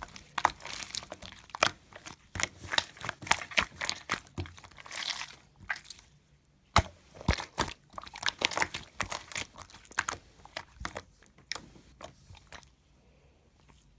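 Slime being squeezed and poked by hand, making a quick string of sharp clicks and crackly pops. A short pause comes about six seconds in, and the sound dies away near the end.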